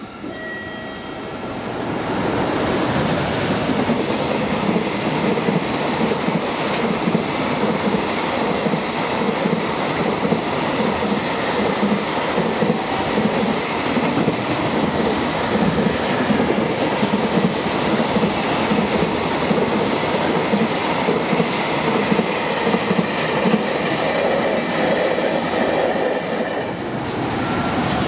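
Train running past on the rails, its wheels clattering in a fast, steady rhythm that builds up over the first couple of seconds and keeps on almost to the end.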